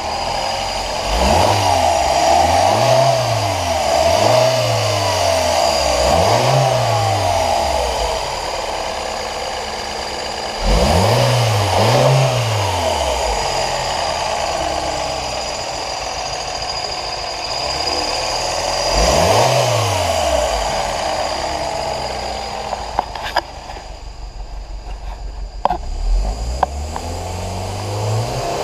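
A 2013 MINI Cooper 1.6-litre four-cylinder engine running and being revved in quick blips. It revs several times in a row at first, then twice more, then once, settling back to idle between them. A few sharp clicks come near the end.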